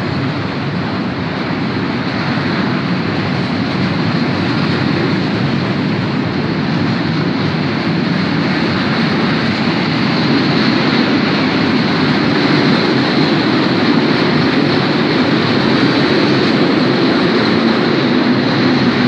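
Freight train hauled by an electric locomotive passing along the rails: a steady rumble and clatter of wagon wheels on the track, growing a little louder about halfway through.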